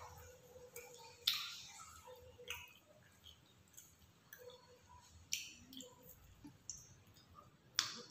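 Close-up chewing of grilled chicken satay: irregular wet mouth clicks and smacks, with a few sharper ones standing out among many small ones.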